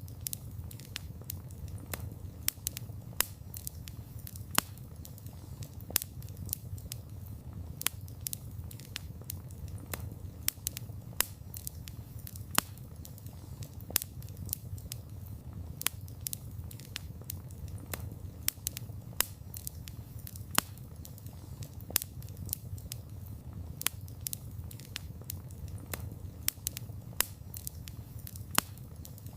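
Campfire of burning wood crackling: frequent sharp, irregular pops and snaps, several a second, over a steady low rumble of the flames.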